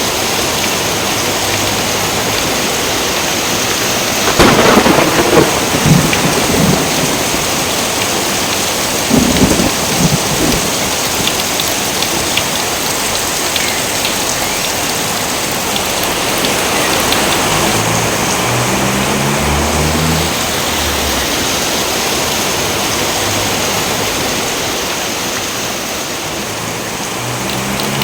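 Steady heavy rain with two loud thunderclaps, about four seconds in and again about nine seconds in.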